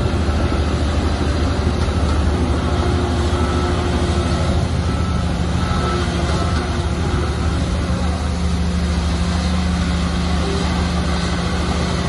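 Shantui bulldozer's diesel engine running steadily under load, a continuous low engine drone with a noisy mechanical clatter over it.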